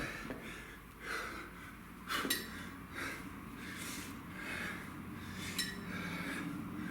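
A man breathing hard in quick, even breaths while exercising with a kettlebell, with two short sharp clicks.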